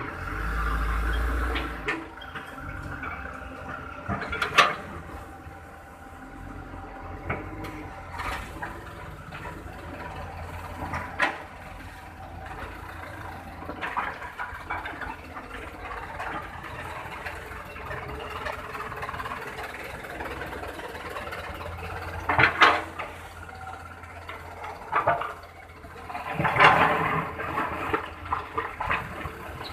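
Diesel trucks and loading machinery running at a sand pit, with a rushing, pouring noise of sand being loaded. A heavy low rumble comes in the first couple of seconds, and scattered knocks and clatters follow.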